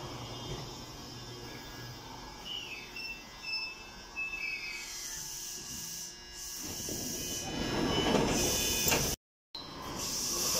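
Fukushima Kotsu 1000 series electric train slowing to a stop at a platform: thin squealing tones sliding downward from the brakes, then a louder rush of air hiss and noise from about seven seconds in. The sound cuts out for a moment near the end.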